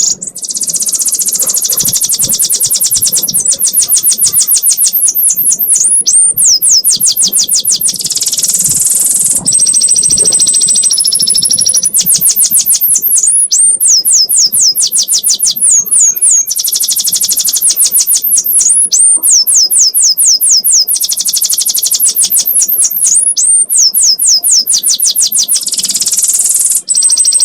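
Domestic canary singing a long, unbroken 'ngekek' song: very high-pitched, fast trills and rapidly repeated up-and-down sweeping notes, broken now and then by a short held whistle, with only brief pauses.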